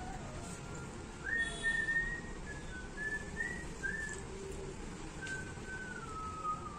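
Someone whistling a short tune: a single thin whistle moving in steps between a few notes, with a falling phrase near the end.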